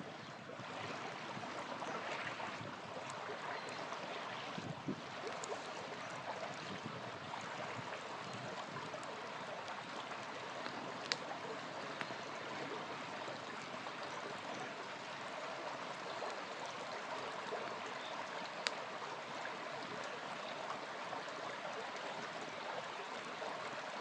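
Small river flowing steadily, with the campfire crackling now and then: scattered faint pops and two sharper cracks, about 11 and 19 seconds in.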